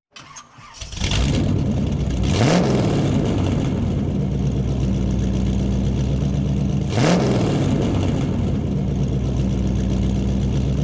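A hot rod's engine starts up and runs at a steady idle. The throttle is blipped twice, about two and a half seconds in and again about seven seconds in, the pitch briefly rising and falling each time.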